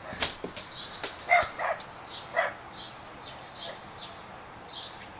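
Birds calling: short high chirps repeating about twice a second, with three louder, harsher squawks in the first half.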